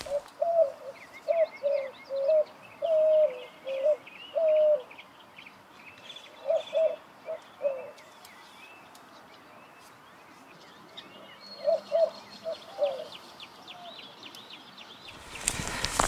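Woodland birdsong. One bird repeats short, low calling notes in runs of several, each note dipping at its end, with pauses between the runs. Smaller birds chirp faintly higher up.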